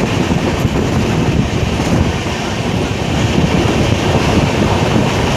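Passenger train running at speed, heard from a coach: a loud, steady rumble of wheels on track mixed with rushing wind on the microphone.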